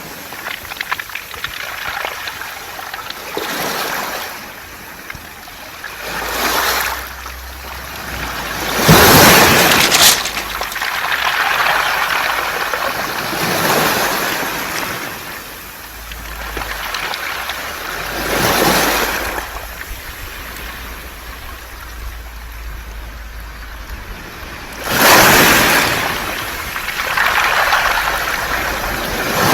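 Sea waves washing in and draining back over a beach of smooth round pebbles (mongdol), in repeated surges every few seconds. The loudest surges come about 9 and 25 seconds in.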